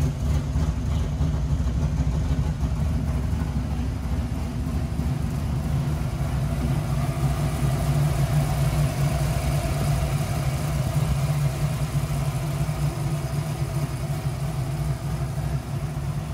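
Naturally aspirated 377 cubic inch V8 built on a Dart 8.2-deck block with a hydraulic roller cam, idling steadily.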